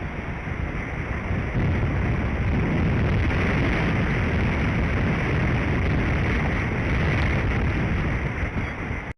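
Strong wind blowing across an outdoor microphone: a steady rush with heavy low rumbling buffets, a little stronger from about a second and a half in.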